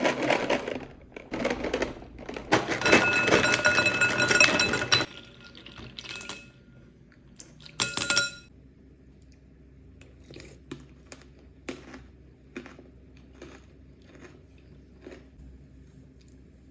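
Whoppers malted-milk-ball cereal poured into a bowl for about five seconds: hard pieces rattling and clattering, the bowl ringing. A shorter burst of rattling and ringing comes about eight seconds in, then a few quieter scattered clicks.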